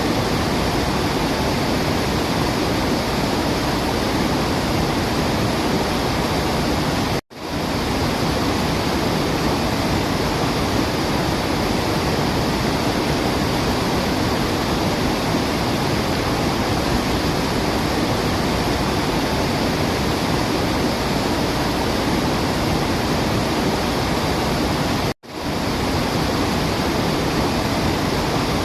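Steady, dense rush of falling water, with no bird calls heard. The sound drops out abruptly for a split second twice, about 7 and 25 seconds in, then resumes at once.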